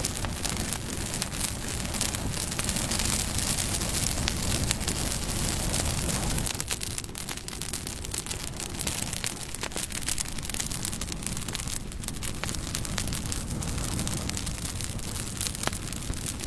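Bonfire burning with a steady low rush of flames and constant crackling, broken by a few sharper pops of the wood.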